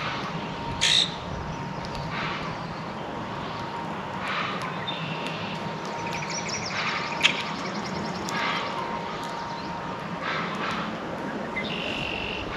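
Songbirds chirping and calling around a feeder in short, scattered notes, with a rapid trill about halfway through and a sharp tap a little after it. A faint steady hum lies underneath.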